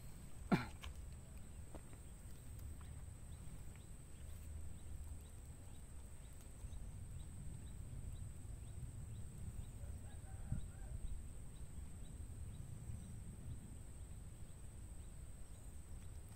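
Quiet outdoor background: a low steady rumble with a thin high whine above it, broken by a sharp click about half a second in and a softer knock about ten seconds in.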